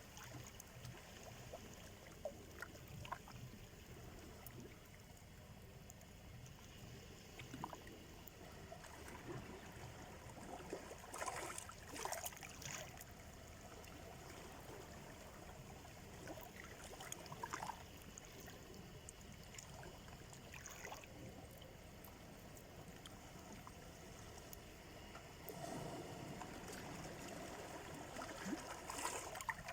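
Gentle Black Sea surf lapping at the shore, a soft steady wash broken by small splashes now and then, with a wave swelling and breaking near the end.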